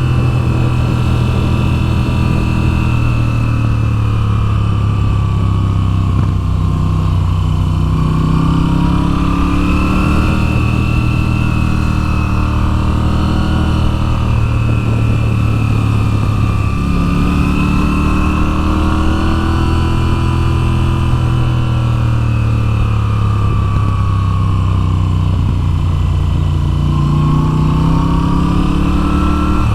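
Moto Guzzi V7's air-cooled transverse V-twin under way on a winding road. The engine note rises and falls again and again as the throttle is opened and closed through the bends.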